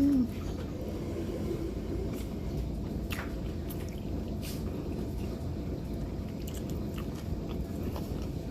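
A person chewing a taquito close to the microphone, with a few soft mouth clicks over a steady low rumble.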